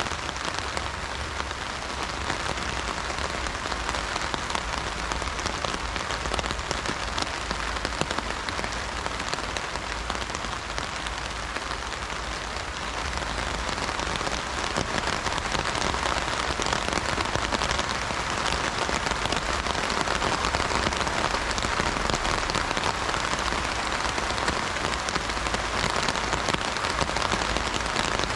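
Heavy rain drumming on an umbrella canopy in a dense patter of drops, growing a little heavier about halfway through.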